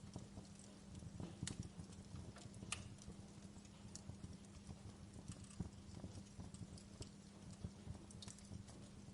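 Wood fire crackling in a fireplace: irregular sharp snaps and pops, a few of them louder, over a low steady rumble of burning.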